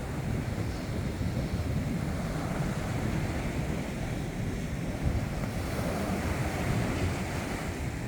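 Ocean surf washing ashore, with wind buffeting the microphone in a low, uneven rumble.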